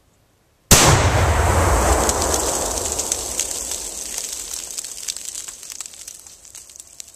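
A 2-pound charge of Tannerite detonating, set off by a 5.56 rifle round: one sudden loud blast about a second in, then a low rumble that dies away slowly over several seconds with scattered crackles.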